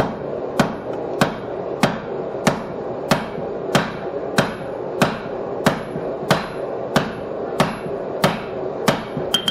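Blacksmith's hammer striking a steel bar on an anvil in an even rhythm, about three blows every two seconds, drawing down the mushroomed end of the bar. Some blows ring high, and near the end there is a quick double strike. A steady rushing noise runs underneath.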